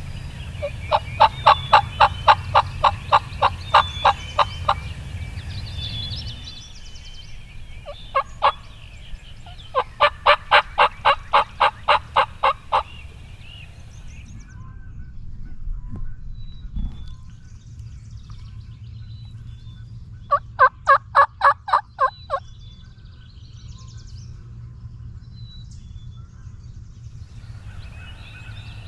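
Turkey yelping: three series of loud, evenly spaced yelps at about three a second, the first of about a dozen notes and the later ones shorter. Songbirds chirp faintly in the background.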